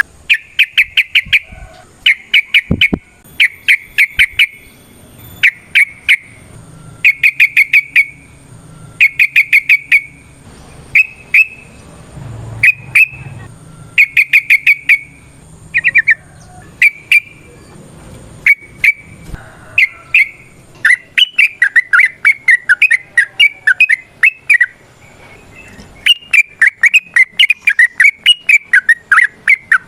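Yellow-vented bulbul calling: short bursts of rapid, rattling notes about once a second, then after about 20 seconds longer bubbling runs of warbled phrases.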